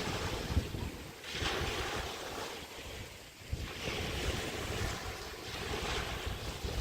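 Small waves breaking and washing on a bay beach, in swells of hiss, with wind buffeting the microphone in low rumbles.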